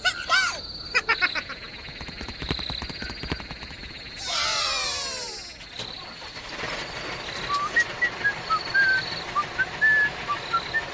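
Animal calls over a steady high insect-like drone: a run of clicks, then one loud call lasting about a second and a half with falling pitch, followed by many short high chirps.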